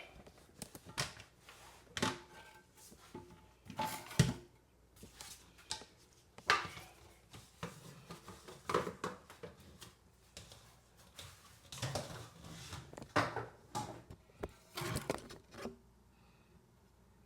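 Irregular scrapes, knocks and clatter of hand work at the base of a toilet, cleaning away crud around the bolt area.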